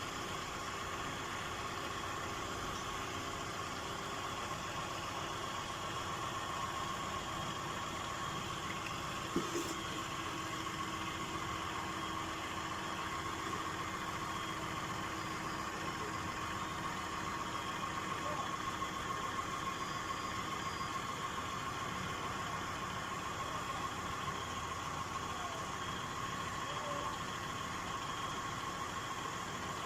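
2017 Lexus RX350's 3.5-litre V6 idling steadily for a transmission fluid level check, with a steady high whine over it and one sharp click about nine seconds in.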